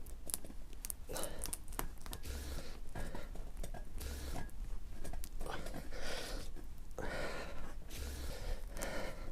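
A man breathing hard and straining as he forces a sticky-straw tyre plug into a puncture with the insertion tool, his breaths coming roughly every second or so, with sharp clicks and scrapes from the tool in the rubber.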